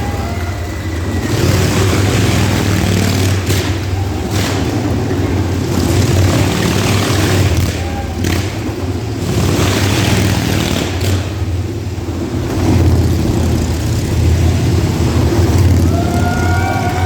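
Motorcycle engines running hard and revving in surges as the bikes circle a show arena, with a steady loud drone under the rising and falling swells.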